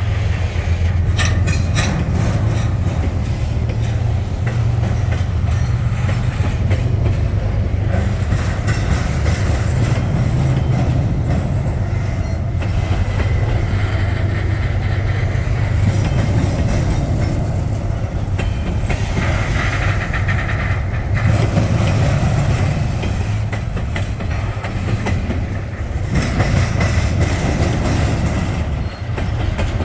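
Freight train rolling by, its wheels clicking over the rail joints over a steady low rumble.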